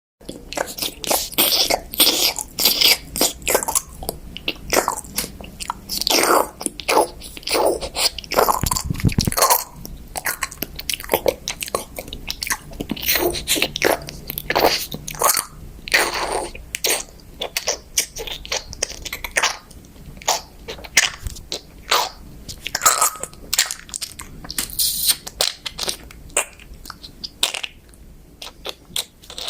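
A kitten feeding close to the microphone: a steady run of short, irregular crunching clicks.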